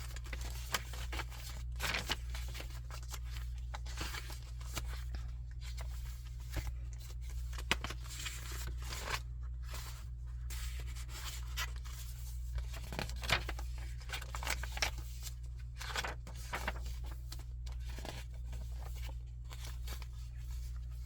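Paper pages and inserts of a handmade junk journal rustling and crinkling as they are turned and handled, with scattered soft clicks, over a steady low hum.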